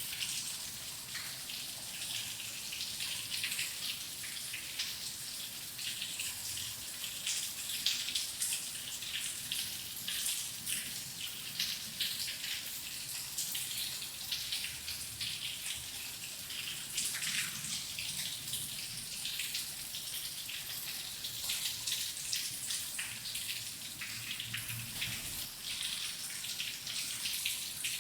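Steady rain with many close, distinct drop impacts, the patter bright and crisp.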